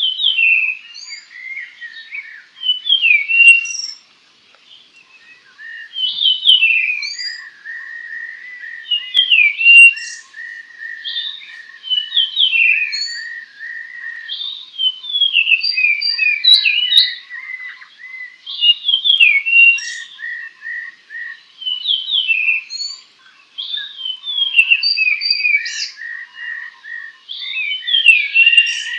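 White-browed shortwing (cingcoang biru) singing: quick, jumbled warbling phrases of high notes, each a couple of seconds long, repeated with short pauses.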